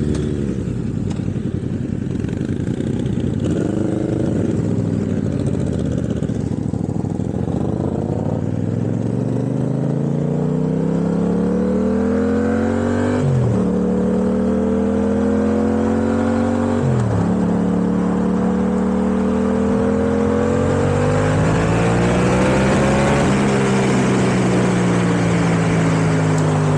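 Yamaha MT-07's 689 cc CP2 parallel-twin engine pulling through the gears under way. Its pitch climbs, drops sharply at two upshifts a few seconds apart past the middle, then holds at steadier revs with slow rises and falls.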